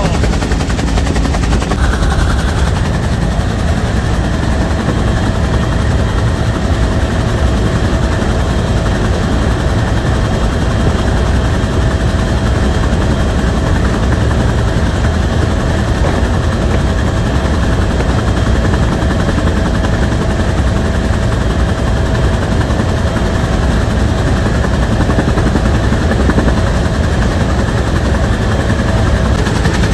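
Bell UH-1 Huey helicopter running steadily: the fast chop of the main rotor over the turbine engine, with a steady whine joining about four seconds in.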